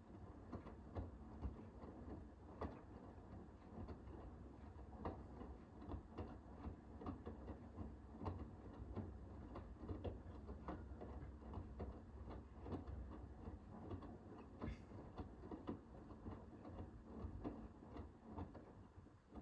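Hoover H-WASH 500 washing machine running its cotton 60 wash: a faint low motor hum under irregular light clicks and taps as the drum turns the laundry.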